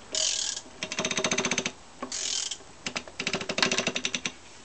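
A ratchet wrench with a 17 mm socket turns a Yamaha XS650 crankshaft by its nut. Two short rasps alternate with two fast runs of ratchet clicks on the back strokes. The rasp is the turning crank, which the owner suspects comes from a worn left-side crankshaft bearing.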